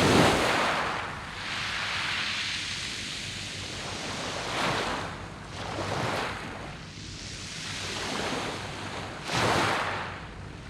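Sea waves breaking and washing over a beach of round pebbles, the surf rising and falling in several surges, the loudest right at the start and again about nine and a half seconds in.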